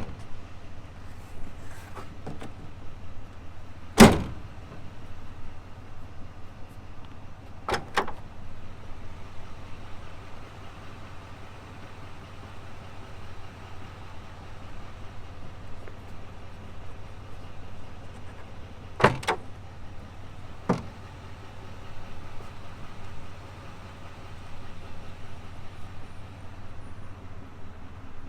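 Doors and latches of a 2020 GMC Sierra 2500HD Denali pickup being opened and shut: a handful of separate clunks, the loudest about four seconds in, over a steady low hum.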